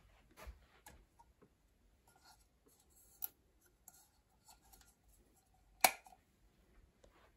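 Small handling noises: faint rustles and light clicks, with one sharp click nearly six seconds in.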